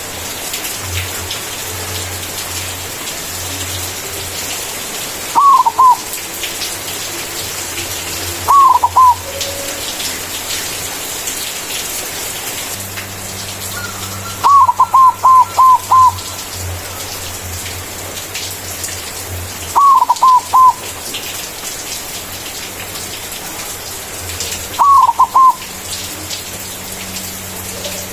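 White zebra dove (perkutut putih) singing its manggung coo: five loud phrases of quick falling notes, the third and longest about halfway in, over a steady hiss.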